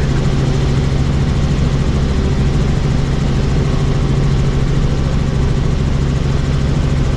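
Helicopter heard from on board: a steady low drone of the rotor and engine over an even rush of air noise, with no change in pitch or level.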